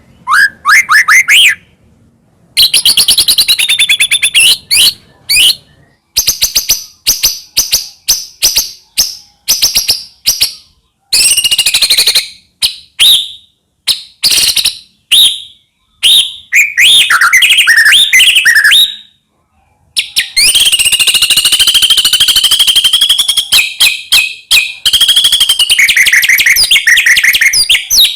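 White-rumped shama (murai batu) singing loudly in long, varied phrases of rapid trills, whistled notes and chattering runs, broken by short pauses.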